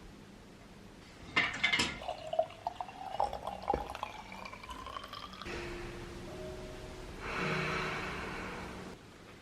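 Liquid being poured into a vessel: a few clinks, then a filling sound that rises steadily in pitch as the vessel fills. Then a steady rushing of running liquid that swells and cuts off abruptly near the end.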